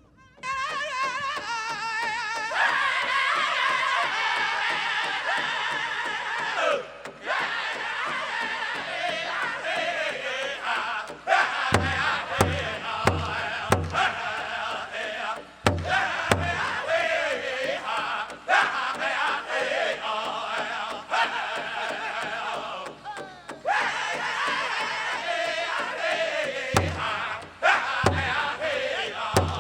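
Pow wow drum group singing a chicken dance song in high voices: one lead voice alone at first, the rest of the singers joining after about two seconds. Scattered strokes on the big drum come in partway through and bunch together near the end.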